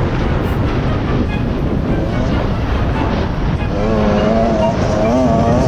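Beta 125RR two-stroke dirt bike engine running hard under a rough noise. About two-thirds of the way in its pitch starts rising and falling as the throttle is worked.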